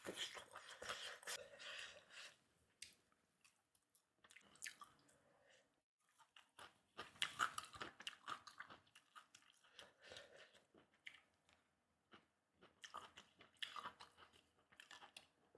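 Close-miked chewing of food with crunchy, crackly bites, coming in several spells with short pauses between them.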